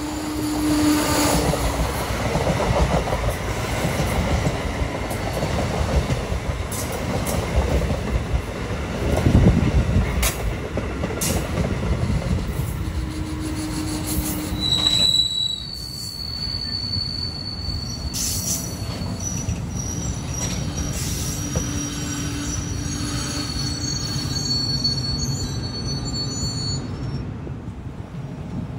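NJ Transit double-deck Multilevel commuter train passing close by: a steady rumble of wheels on rail with rail-joint clacks. High-pitched squealing comes in about halfway through and goes on until near the end.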